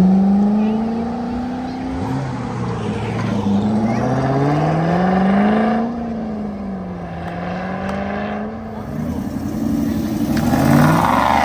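A car's engine accelerating hard as it drives away. Its pitch climbs, drops at an upshift about two seconds in, then climbs again before levelling off. Another engine revs up, louder, near the end.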